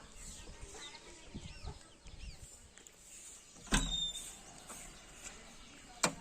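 Faint outdoor ambience with small birds chirping. Two sharp knocks come, one a little past halfway with a brief metallic ring, and one near the end.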